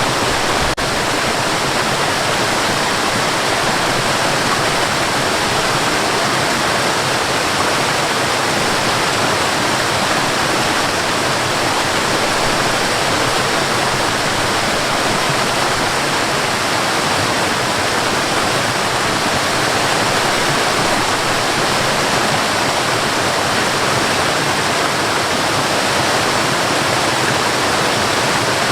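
Waterfall: a steady, even rush of falling water with no change in strength.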